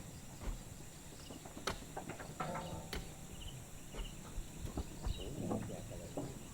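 Faint, scattered knocks and clicks at irregular times, with short high chirps repeating now and then behind them.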